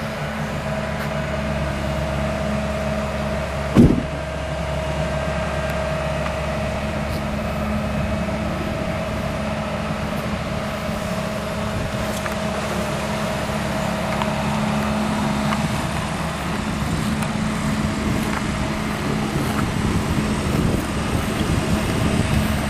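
Diesel earthmoving machinery running steadily as it backfills a trench, with an engine hum and a steady higher whine, and one loud sharp knock about four seconds in.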